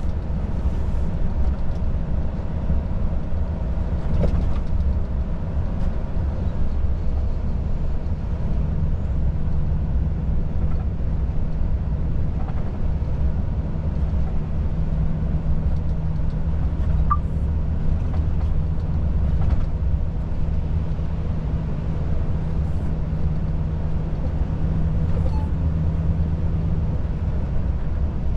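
Volvo FH 500 truck's diesel engine running steadily with road noise, heard from inside the cab. A steady low engine hum settles in from about nine seconds in.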